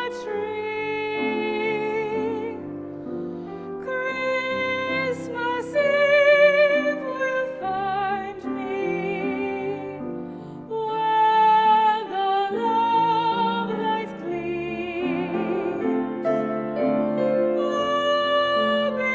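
Classically trained female voices singing a slow Christmas song with wide vibrato, accompanied by piano.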